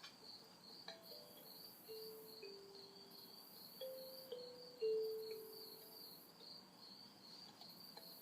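A chorus of night insects chirping in a steady pulsing rhythm, about three pulses a second, with a soft, slow melody of long held notes beneath it.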